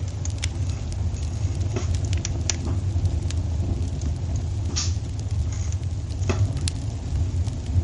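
Wood fire in a fireplace crackling: a steady low rumble of burning with scattered sharp pops and snaps, the strongest about five seconds in.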